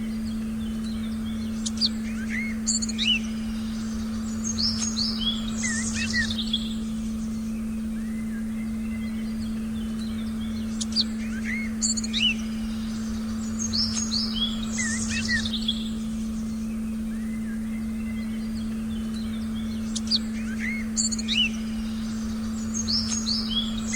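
A forest recording of small birds chirping and whistling in clusters, the same run of calls returning about every nine seconds, over a steady low tone that lasts throughout.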